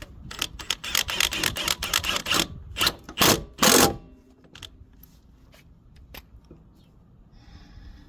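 Socket ratchet clicking rapidly as a lawn mower blade bolt is run down and tightened, with a few louder knocks just before the ratcheting stops about four seconds in; then a few light scattered clicks.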